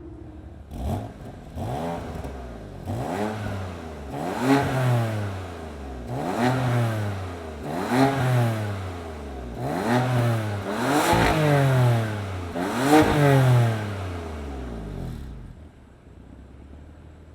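BMW F80 M3's twin-turbo inline-six on a stainless aftermarket exhaust, revved in about eight quick blips, each climbing and then falling back, with sharp pops and crackles as the revs drop. The revving stops near the end, leaving a low hum.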